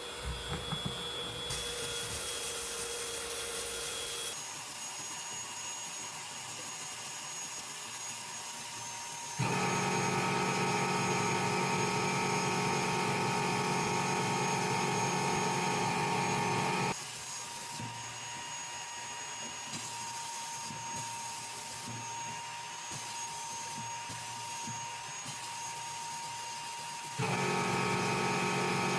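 Electric power tool running steadily with a whine on metal, in several clips joined with abrupt cuts. It is louder from about a third of the way in to just past halfway, and again near the end.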